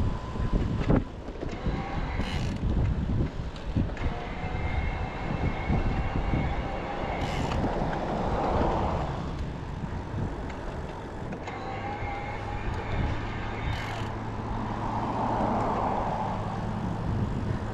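Riding noise from a Riese & Muller Roadster e-bike: wind rushing over the microphone and tyre noise, with a faint whine. Three sharp clicks are heard during the ride.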